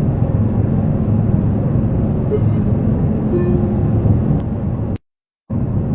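Steady low rumble of an airliner, cut off abruptly for about half a second near the end before resuming.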